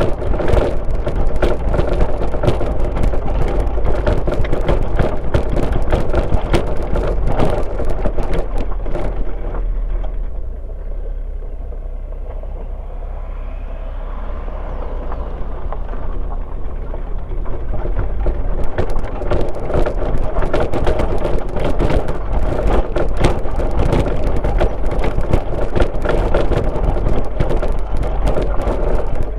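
A car driving on a rural road: the steady low rumble of tyres and engine with dense, irregular rattling and crackling. It eases into a quieter, smoother stretch for several seconds in the middle, then picks up again.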